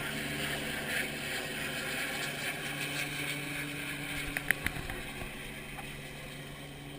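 Helicopter droning steadily and slowly fading. A few short sharp clicks come about four and a half seconds in.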